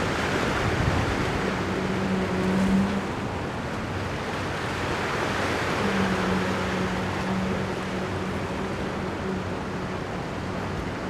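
Ocean surf washing in a steady rush that swells and eases, with a low steady hum twice.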